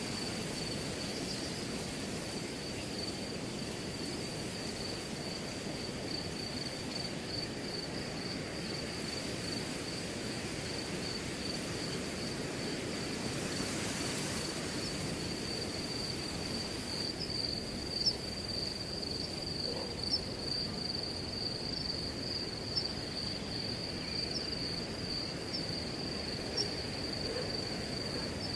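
Wind rustling through grass, with a cricket's continuous high, rapidly pulsing trill over it. A few short higher chirps come in during the second half.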